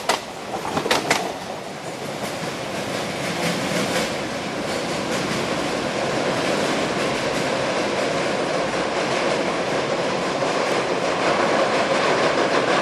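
Express train's wheels running on the rails: a couple of sharp clacks over rail joints in the first second, then a steady rolling rumble that slowly grows louder.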